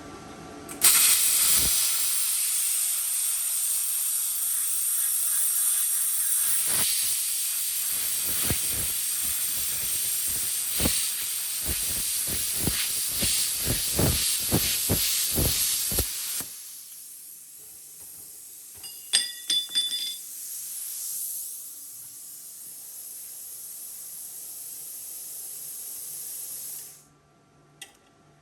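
Plasma cutter cutting steel: a loud, steady hiss of air and arc starts abruptly, with crackling through the middle of the cut. After about fifteen seconds the arc stops and a quieter hiss of post-flow air runs on, with a few sharp clicks, before cutting off near the end.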